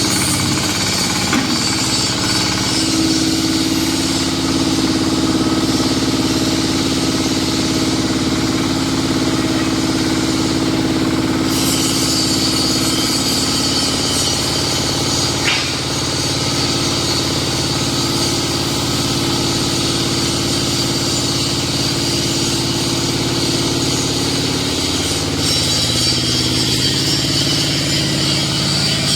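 QTJ4-40 concrete block making machine running on its diesel engine, a steady mechanical drone with a steady hum underneath. About twelve seconds in a harsher, hissing layer joins, and the sound shifts again near twenty-five seconds.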